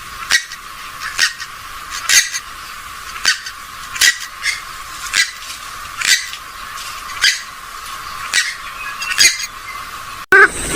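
Recorded calls of a rail-family bird: short, sharp squawks repeated about once a second, thin-sounding with the low end cut away.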